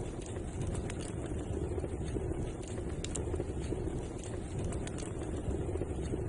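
Fireplace fire burning: a steady low rumble of flames with a few sharp crackles from the burning wood.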